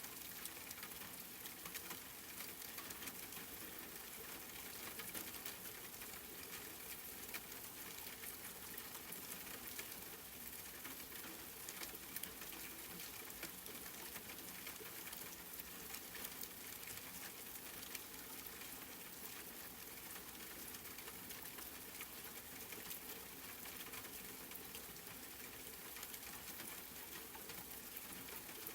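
Steady rain falling: a dense, even hiss of countless drops with many small, sharp drop ticks running through it.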